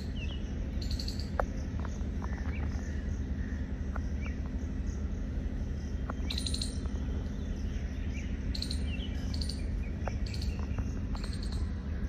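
Small birds chirping in scattered short high calls and quick gliding notes over a steady low hum.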